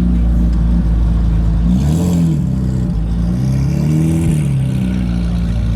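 Car engine idling, blipped twice: the engine note rises and falls back about two seconds in and again around four seconds.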